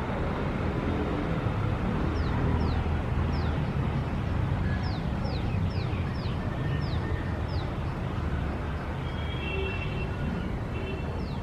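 Steady low rumble of city traffic, with a bird calling over it in a run of about ten short chirps that each slide down in pitch, through the middle of the stretch, and once more near the end.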